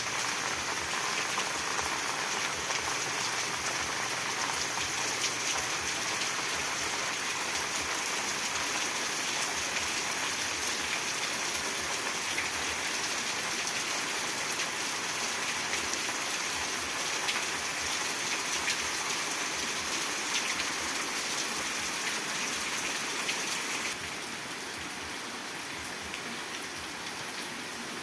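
Light rain falling as a steady, even hiss, with no thunder. It drops a little in loudness about three-quarters of the way through.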